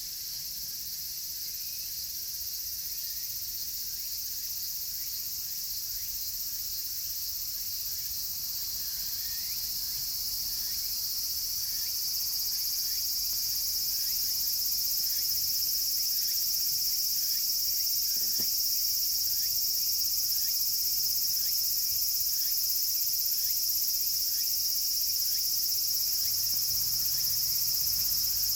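A chorus of cicadas shrilling steadily, growing louder about halfway through. Over it, higurashi (evening cicadas) give their run of short, falling 'kana-kana' notes, a few a second.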